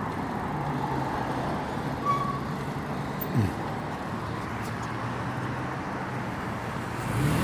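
City road traffic: the steady hum of vehicle engines, with one engine rising in pitch near the end as it speeds up.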